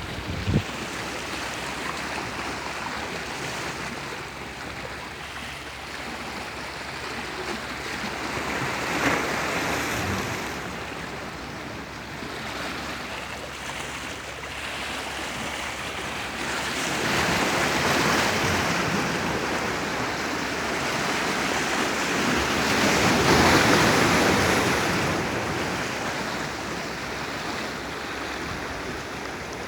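Sea waves washing onto the shore in a steady hiss, with louder surges of breaking surf about nine, eighteen and twenty-four seconds in, the last the loudest.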